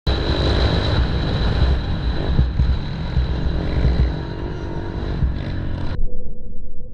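Small pit bike engine running, with a steady high whine over a heavy low rumble. About six seconds in, the sound turns abruptly muffled.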